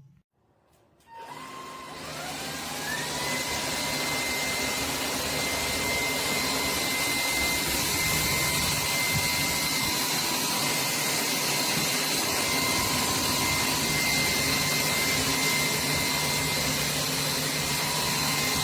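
SKIWEC 600 W cordless stick vacuum switched on about a second in, its motor spinning up in a rising whine and then running at a steady high whine over a loud rush of air.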